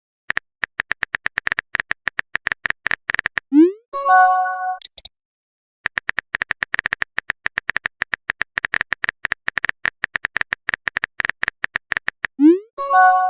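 Messenger-app sound effects: a run of rapid typing clicks, then a short rising whoosh and a brief chime of several notes together, as a message is sent and arrives. The sequence plays twice.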